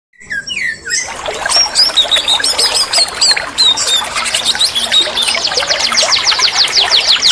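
Songbird singing loudly: varied whistled phrases and chirps, then from about five seconds in a fast run of repeated downward-sweeping notes.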